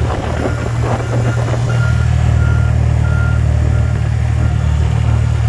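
Vehicle engine running with a steady low drone. From about two seconds in, a high electronic beep repeats about every two-thirds of a second, like a reversing alarm.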